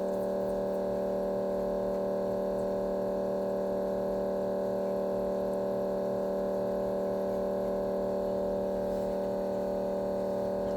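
Steady electrical hum: a few unchanging tones held at an even level, with no other sound standing out.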